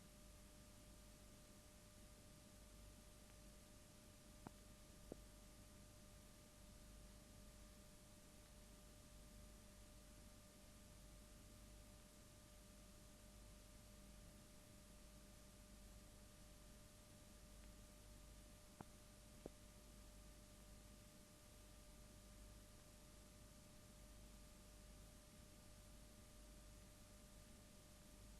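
Near silence: faint hiss with a steady faint hum tone, broken by two pairs of small clicks, about four seconds in and again about nineteen seconds in.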